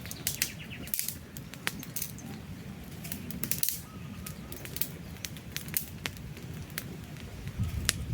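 Wood campfire crackling, with irregular sharp snaps and pops over a low steady rumble of the flames. A bird trills briefly at the start.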